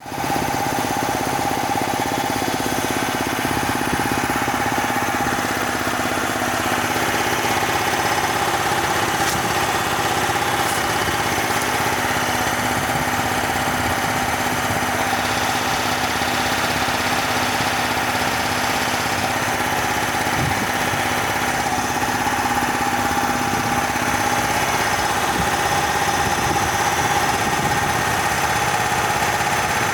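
Bauer 330-bar high-pressure piston compressor running steadily, an even mechanical hum with a constant whine.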